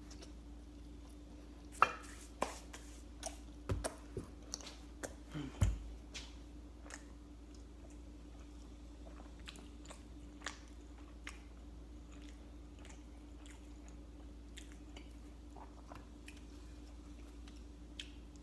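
A person eating reheated pizza: a run of sharp bites and crunchy chewing sounds in the first half, then only a few scattered ones. A faint steady hum sits underneath.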